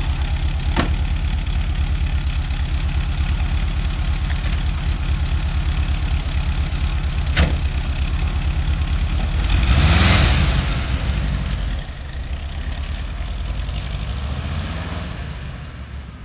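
Air-cooled flat-four engine of a 1978 Volkswagen Beetle idling steadily, with a sharp knock about a second in as the rear engine lid is shut and another knock about seven seconds in. About ten seconds in the engine revs up as the car pulls away, drops briefly at a gear change, revs again and fades as it drives off.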